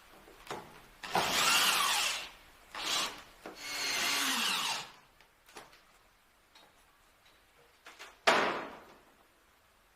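A tool working material in a few short noisy bursts, like sawing or rubbing strokes, with one sudden louder stroke near the end that fades away.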